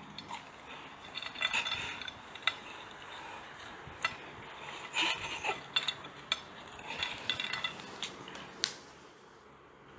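Scattered light clicks and clattering knocks, irregular and coming in small clusters, like hard household objects being moved or tapped.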